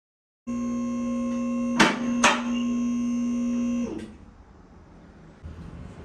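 A steady electric hum with two sharp clicks about half a second apart partway through, cutting off with a click after about three and a half seconds.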